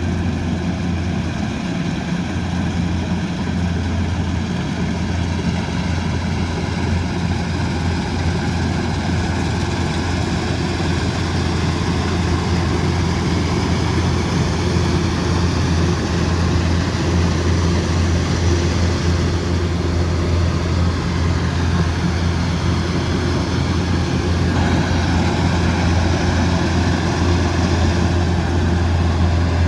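Kubota DC108X combine harvester's diesel engine running steadily with a low, even hum, getting a little louder about halfway through.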